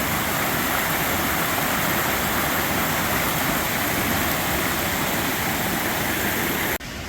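A fast-flowing stream rushing steadily, running strong enough that the ford is unsafe to wade. The rush cuts off abruptly near the end.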